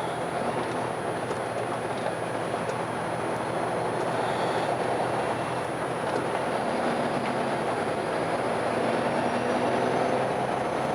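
Steady rumble of a vehicle in motion, slowly getting a little louder, with a faint rising whine in the second half.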